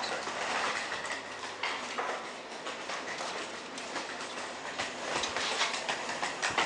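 A train rolling past on the rails, its wheels clattering steadily over the rail joints.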